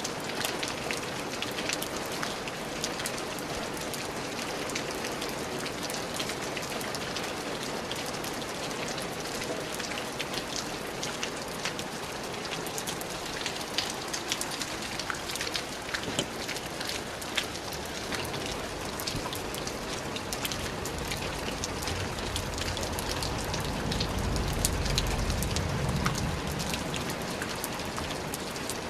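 Steady rain falling on a surface, with many separate drops ticking through the patter. A low rumble swells in and fades again during the last third.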